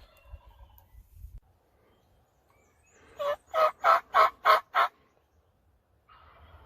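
Six loud, evenly spaced turkey yelps in a quick series lasting about a second and a half, a little past halfway in.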